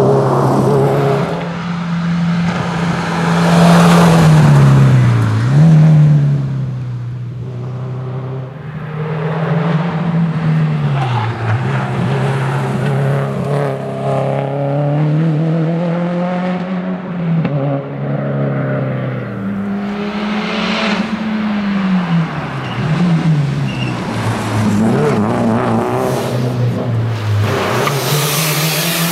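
Subaru WRX STI's turbocharged flat-four engine driven hard on a rally stage. The revs climb steadily and drop back sharply several times as it works through the gears.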